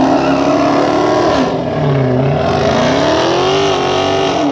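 Muscle car engine revving hard at a drag strip start, its pitch dipping and climbing several times, dropping again near the end.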